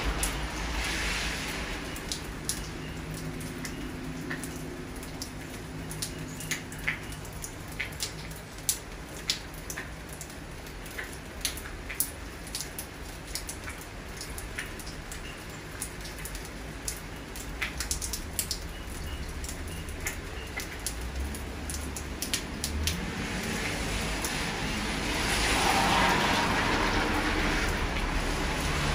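Steady rain with frequent close drops tapping one by one. Cars pass on the wet road, their tyre hiss swelling briefly at the start and again in the last few seconds.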